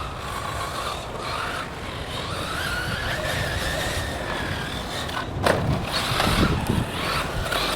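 Electric 1/8-scale RC buggy's brushless motor whining as it accelerates and eases off, with its tyres running over the dirt. A couple of sharp knocks come about five and a half seconds in, followed by a heavier rumble.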